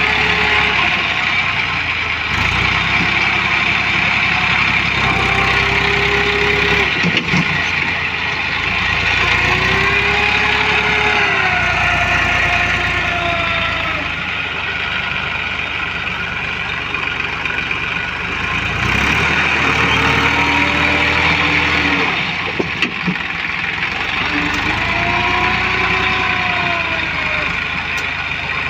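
Tractor diesel engine running steadily under load, its level easing off a little midway and then building again. Several short rising-and-falling tones sound over it now and then.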